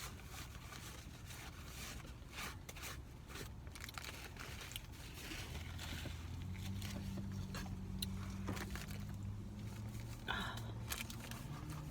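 Close-up eating sounds: chewing a burger with soft crunches, and the paper wrapper rustling as it is handled. A low steady hum comes in about halfway through and fades near the end.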